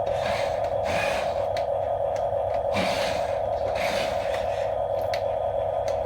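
Small electric gear motors of a remote-control toy construction vehicle running with a steady whine, with irregular surges of gear noise every second or so.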